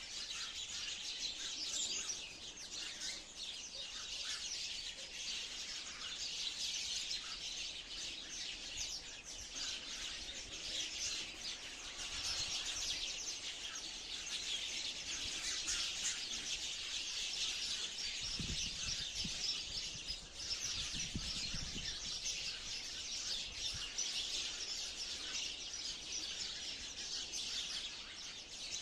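A flock of sparrows chirping: a dense, unbroken chatter of many short high chirps. There are two brief low rumbles around two-thirds of the way through.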